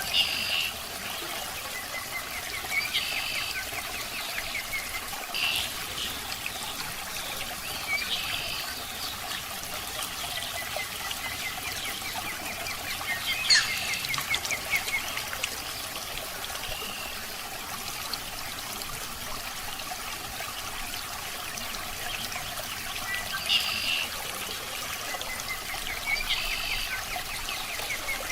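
Water trickling steadily into an aquarium, with short, high chirp-like sounds every two to three seconds and one sharper click about halfway through.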